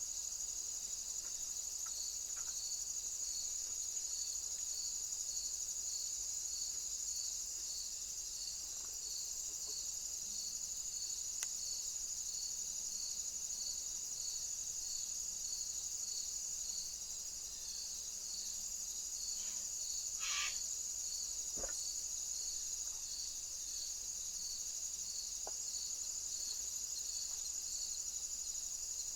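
Crickets and other insects chirring steadily, with a regular high chirp repeating a little under once a second. A brief higher call cuts in about two-thirds of the way through.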